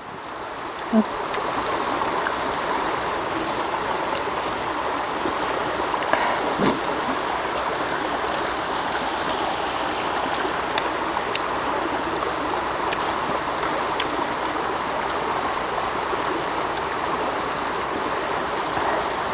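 Water flowing over a rock bed at a small waterfall: a steady rushing of running water, with a few faint ticks over it.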